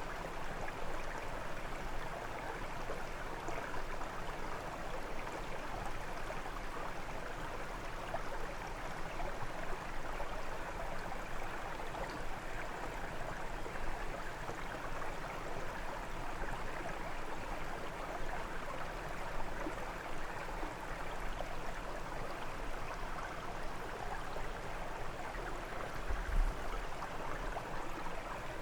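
Brook water flowing and splashing steadily over stones, a continuous rushing murmur.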